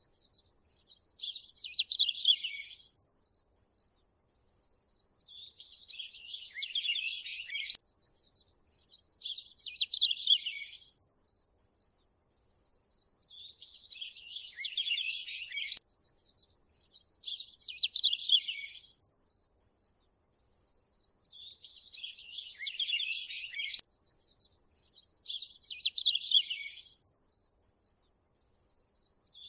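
Birds chirping in short flurries about every four seconds over a steady high hiss. The pattern repeats about every eight seconds, as in a looped nature ambience track.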